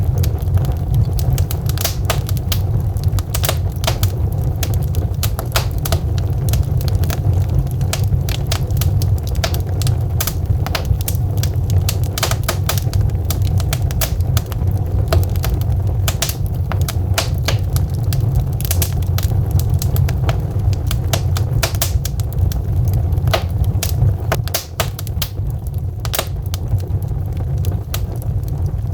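Wood logs burning in a fireplace, crackling and popping with many irregular sharp snaps over a steady low rumble.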